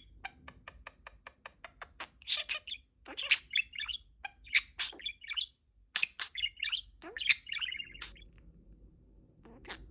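Budgerigar chirping and chattering in short, high bursts, after a quick run of faint ticks in the first two seconds.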